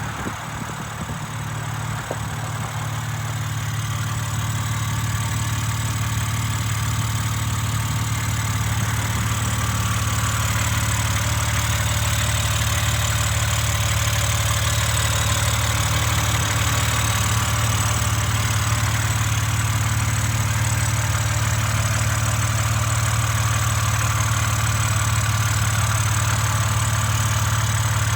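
A 2023 BMW M3 Competition's 3.0-litre twin-turbocharged inline-six idling steadily, with a low, even hum. It grows louder over the first few seconds, then holds level.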